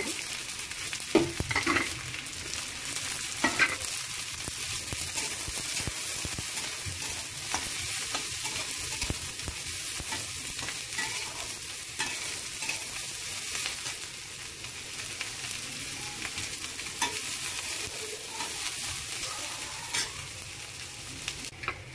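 Sliced onions, chopped ginger and garlic and whole spices sizzling in hot oil in a steel kadai, stirred with a metal spatula that scrapes and knocks against the pan. A few louder knocks fall in the first four seconds and one near the end.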